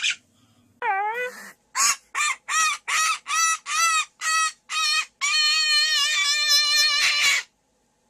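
A bird calling: one sliding call, then a run of about eight short repeated calls, then a long wavering call that cuts off suddenly.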